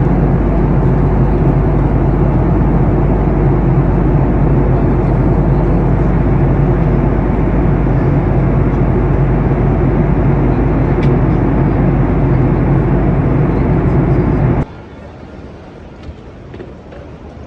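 Loud, steady vehicle engine hum that cuts off abruptly about fifteen seconds in, leaving much quieter city background noise.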